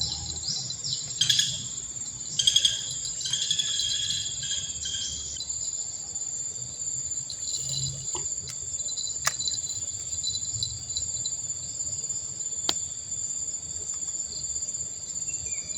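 Steady high-pitched insect chorus droning without a break. Some bird-like chirps come in over it during the first few seconds, and there are a few sharp clicks midway.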